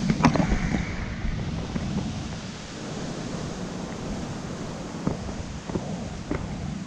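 Steady rushing of river rapids mixed with wind on the microphone, with a few short sharp knocks shortly after the start and again near the end.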